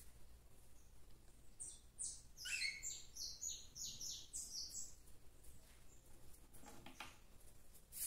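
A bird chirping: a quick run of short, high chirps starting about two seconds in and lasting around three seconds, followed by a few faint taps near the end.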